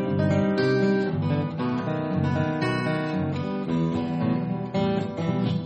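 Acoustic bluegrass instrumental break: plucked acoustic strings playing a run of quick notes over strummed acoustic guitar, with no singing.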